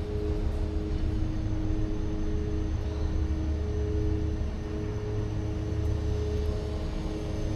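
Steady low mechanical rumble with a steady droning hum of large machinery running.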